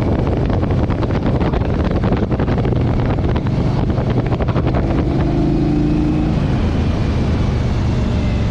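Motorcycle engine running steadily under way, with rough noise on top during the first few seconds and a brief higher hum about five seconds in.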